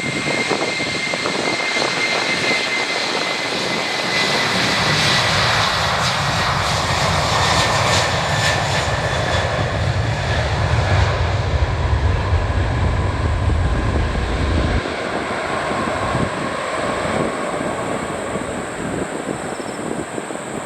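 Airbus A330-300 jet engines at takeoff power. A high whine slowly falls in pitch while a low rumble builds, is strongest in the middle and drops off sharply about fifteen seconds in, leaving a fading roar as the airliner climbs away.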